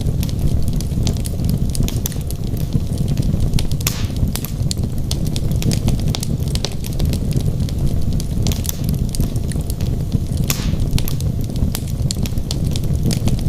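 Wood fire burning in a fireplace: a steady low roar of flames under constant irregular crackling, with a few louder pops.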